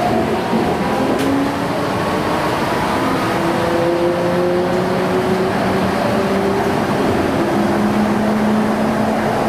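Yokohama Seaside Line 2000 series rubber-tyred automated guideway train running, heard from inside the car: a steady rumble of the tyres on the guideway, with several faint whining tones from the inverter drive gliding slowly upward in pitch.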